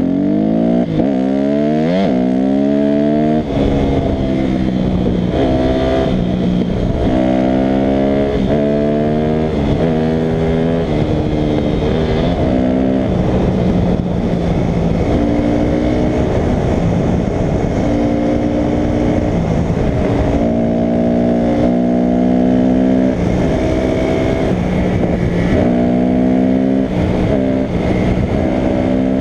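Dirt bike engine running hard, revving up and shifting, its pitch climbing then dropping back again and again.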